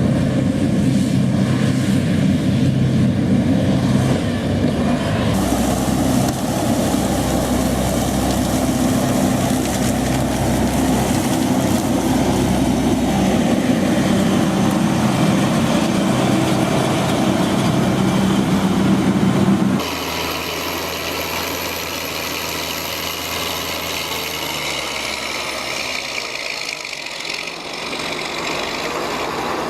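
Heavy farm machinery engines running steadily with a deep drone. About twenty seconds in the sound changes abruptly to a quieter machine with a faint high whine.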